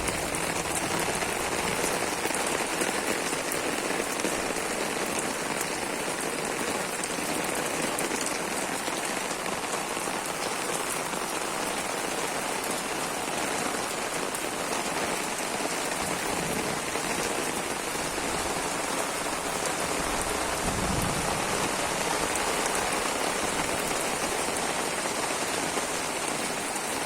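Steady rain falling and pattering on surfaces, an even hiss of many drops without let-up.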